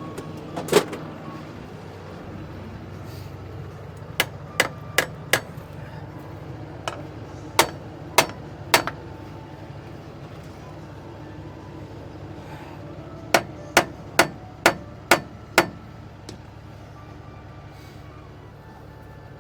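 Hammer blows on metal, each ringing briefly: one strike, then four quick ones, then three, then a run of six, over a steady low hum.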